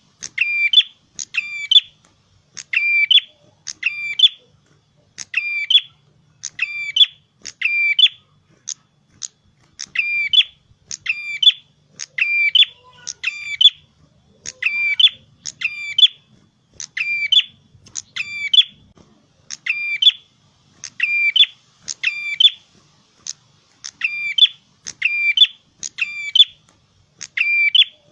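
Prenjak kepala merah songbird singing vigorously: a loud, sharp note repeated about once or twice a second in long runs, with a few brief pauses.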